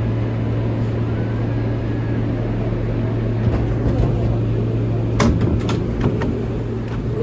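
R143 subway train running along the track: a steady low hum over a rumble, with a few sharp clacks about five to six seconds in.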